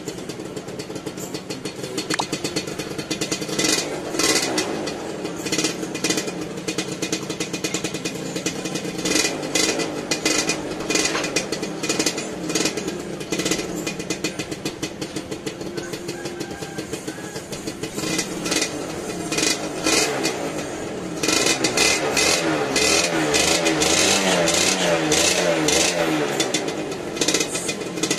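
Suzuki RGV 120 single-cylinder two-stroke motorcycle engine running with repeated short blips of the throttle. About three-quarters of the way through it is held at higher, louder revs that waver up and down, while it puffs out heavy two-stroke exhaust smoke.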